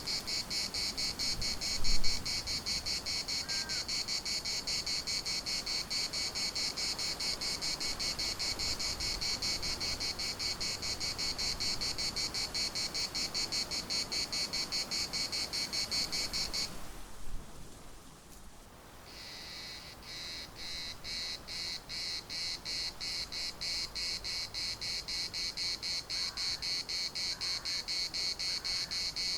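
Cicadas singing in a rapidly pulsing, high buzzing chorus. It cuts off suddenly a little over halfway through, then starts up again strongly about two seconds later. A single loud thump about two seconds in.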